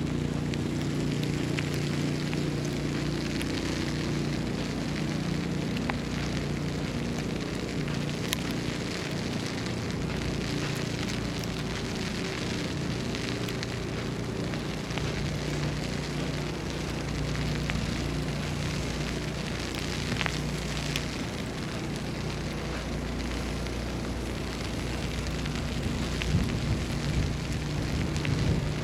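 City street ambience in a snowstorm: an even crackling hiss over a steady low mechanical hum, with scattered small ticks and a slight swell near the end.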